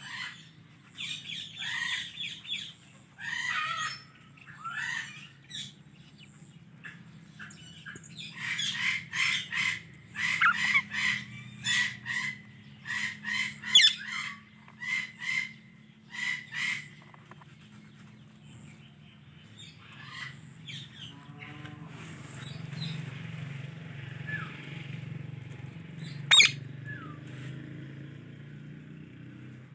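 Indian ringneck parakeet giving short, sharp chirps and squawks, with a fast run of evenly repeated calls in the middle. Past the middle the calls thin out to a few faint chirps over a low steady rumble, and a single sharp click comes near the end.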